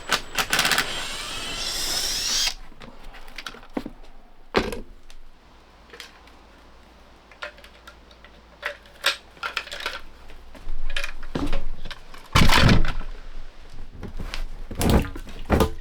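Power drill or driver whirring for about two seconds near the start, its pitch sweeping up and down, followed by scattered knocks and thumps of hand work inside a wooden boat hull, loudest about twelve seconds in.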